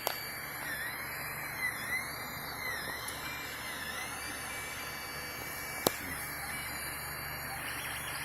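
3D printer running a print: a steady fan hiss with the stepper motors whining in soft rising-and-falling sweeps about once a second. Two sharp clicks, one near the start and one about six seconds in.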